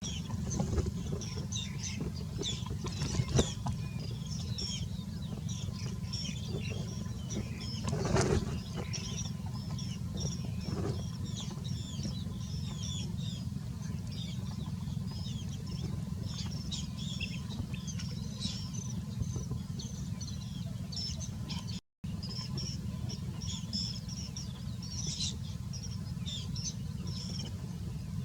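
Small birds chirping: many short, high-pitched chirps in quick succession, over a steady low rumble. There are two dull thumps, near 3 seconds and near 8 seconds.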